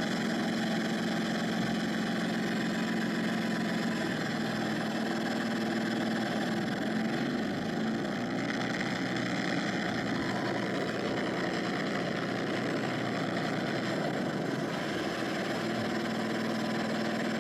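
Mercedes-Benz OM906LA (MBE-900) inline-six turbodiesel in a Thomas Saf-T-Liner C2 school bus, running steadily through its exhaust at an even, unchanging speed.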